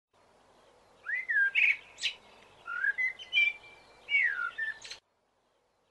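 Wild birds calling: a slurred whistle that rises and then falls, heard about three times, with shorter chirps and buzzy notes between, cutting off abruptly near the end.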